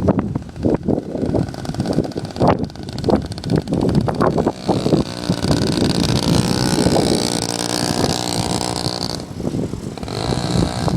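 Small engine of a mini dirt bike running, choppy and uneven for the first few seconds, then settling into a steady engine note from about halfway through.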